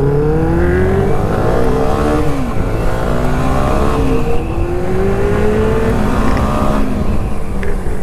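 Benelli 600i's inline-four engine accelerating hard through the gears: its pitch climbs steadily in each gear and drops at three upshifts.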